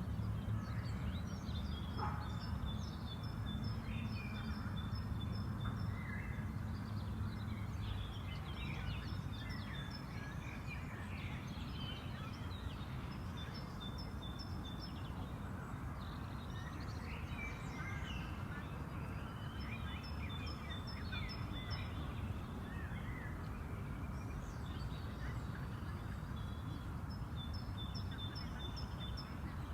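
Songbirds singing, with bouts of short high notes repeated in quick series every few seconds and other chirps between them, over a steady low background rumble.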